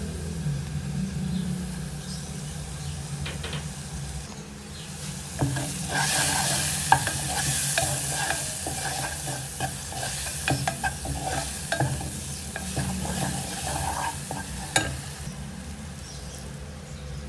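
Eggplant frying in a pan, sizzling, while it is stirred with a utensil that clicks and scrapes against the pan. The sizzle swells a few seconds in and eases off again, over a steady low hum.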